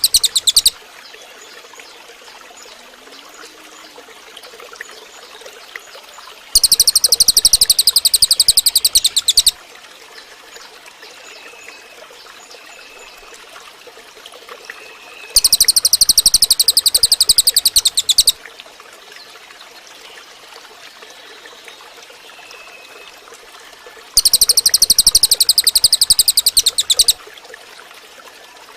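Cililin bird singing a loud, very high, rapid trill of about three seconds, given three times about nine seconds apart, with the end of another trill right at the start. A steady hiss and a few faint soft notes fill the gaps.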